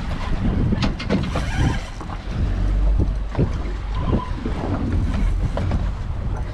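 Strong wind buffeting the microphone on an offshore fishing boat, with a low rumble and many irregular knocks and splashes of water slapping against the hull.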